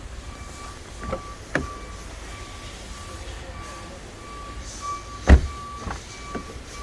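Car door being shut, a heavy thump about five seconds in after two lighter knocks earlier, with a faint beep repeating steadily throughout.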